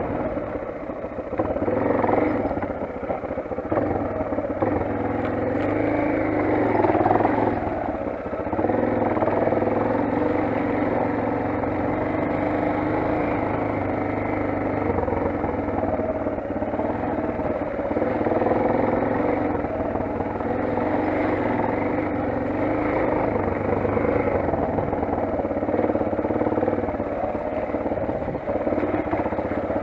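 Motoland XR 250 enduro motorcycle's single-cylinder engine running under way, its note rising and falling with the throttle, with some rattling.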